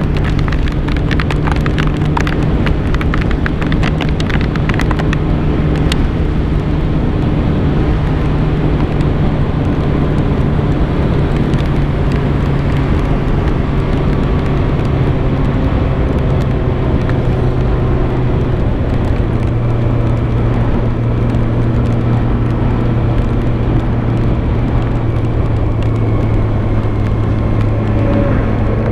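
Kawasaki ZX-6R 636's inline-four engine running at a steady highway cruise under heavy wind rush. Its pitch eases slowly down through the second half. Sharp crackles come through in the first few seconds.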